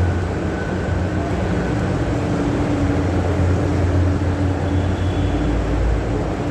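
Steady machinery drone with a strong low hum and a faint steady tone above it, deepening slightly near the end.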